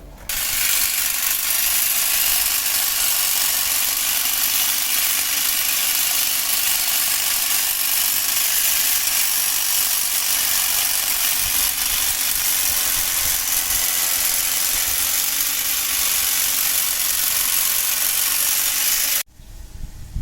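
Brush cutter running steadily at high speed. It starts suddenly just after the beginning and cuts off sharply about a second before the end.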